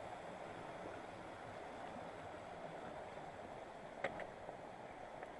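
Steady rushing of a mountain river and waterfall, with two short sharp clicks about four seconds in.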